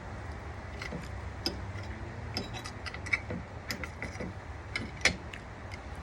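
Scattered small clicks and taps from eating at the table, at irregular spacing, the sharpest about five seconds in, over a steady low rumble of wind on the microphone.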